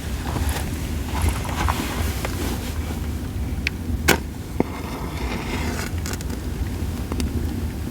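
Campfire of split sawtooth oak (kunugi) firewood crackling, with scattered sharp pops, the loudest about four seconds in, over a steady low rumble.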